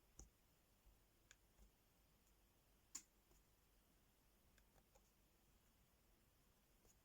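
Faint, sparse small clicks and taps from diamond-painting work: tiny plastic rhinestones and tools tapping on the sticker sheet and tray. About eight irregular clicks, the sharpest about three seconds in.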